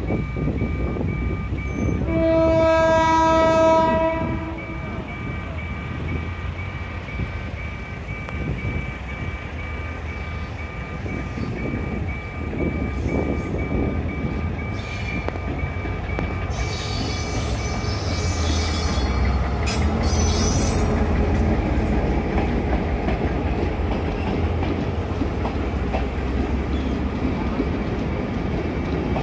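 Level-crossing warning bell beeping steadily as a G22 diesel locomotive approaches, with one long horn blast about two seconds in. The locomotive's engine rumbles as it draws close, then hopper wagons roll past with a clickety-clack of wheels over the rail joints.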